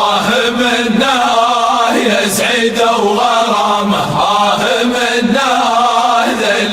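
Voices chanting a drawn-out, wavering melody over a steady low tone, in the manner of a wedding chant.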